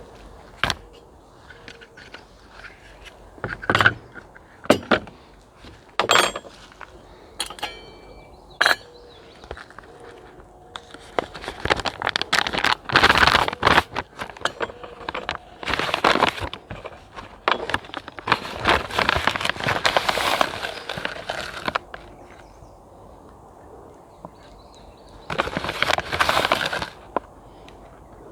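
Handling noises of camp cooking gear and food containers: scattered knocks and clicks at first, then longer stretches of rustling and scraping from about the middle on.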